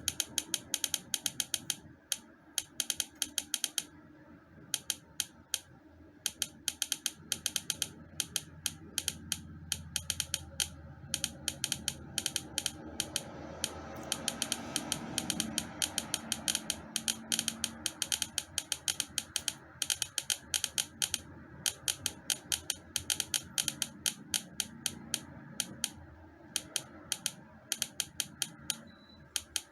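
Rapid, irregular, sharp clicking, several clicks a second, often in quick runs with short gaps, over a low rumble that swells in the middle and fades again.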